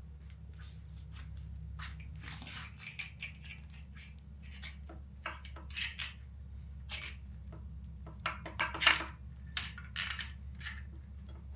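Irregular metallic clinks, taps and scrapes of a GM 8.1L V8's main bearing caps and hand tools being worked off the block during teardown, with a denser run of sharper clinks about 8 to 10 seconds in. A steady low hum lies underneath.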